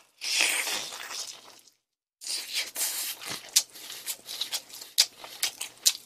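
A bite into crispy-coated chicken: a loud crunch lasting over a second. After a short pause comes chewing, with crackling crunches and sharp clicks.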